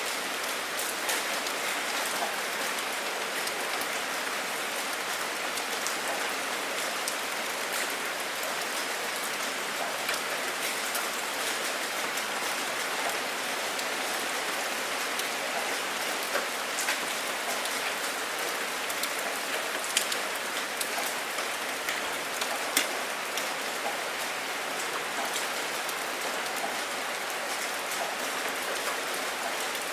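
Steady rainfall, an even hiss with scattered sharp drop hits, a few louder ones past the middle.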